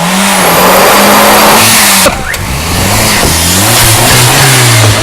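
Car engine revving hard: its pitch climbs and holds, drops sharply about two seconds in, then rises again.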